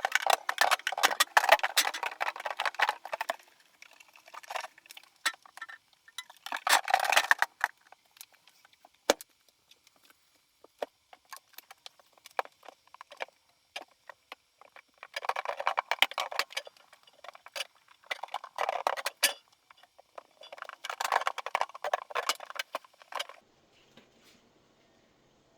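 Bursts of clicking, rustling and light clinking, as of small objects being handled, with quieter stretches of scattered clicks between them.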